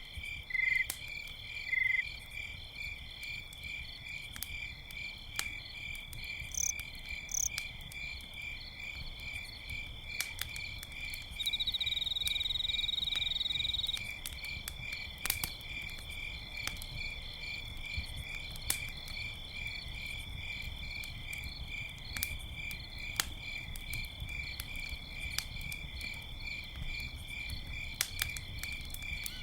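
Crickets chirping in a steady, evenly pulsing chorus, with a campfire crackling in scattered sharp pops. About twelve seconds in, a louder trill runs for two or three seconds and stops.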